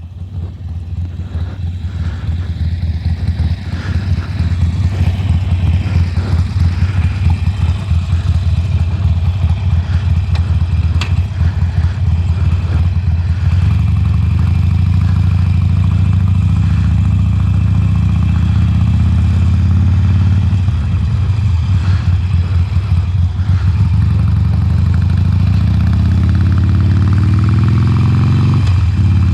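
Harley-Davidson Sportster Forty-Eight's air-cooled 1200 cc V-twin on its stock exhaust, running as the bike is ridden. It builds up in loudness over the first few seconds, then runs steadily, and its note climbs near the end as it accelerates.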